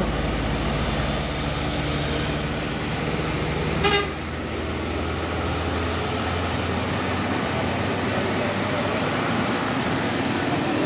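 Heavy truck engine running with a low drone, and a short, sharp horn toot about four seconds in. The engine drone fades soon after the toot.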